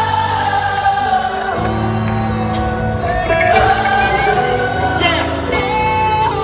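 Live gospel music: a choir singing long held notes over a band with keyboard and bass, and cymbal strikes about once a second.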